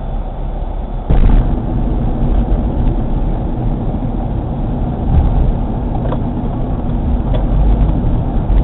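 A car driving, its low engine and road rumble heard steadily, with a sudden knock about a second in after which the rumble runs louder.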